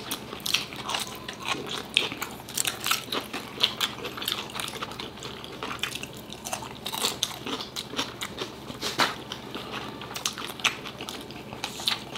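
Two people chewing and biting into food: a run of irregular, closely spaced wet mouth clicks and crunches.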